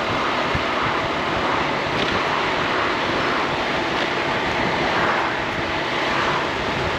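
Steady wind rush and road noise from a Honda ADV 350 scooter on the move.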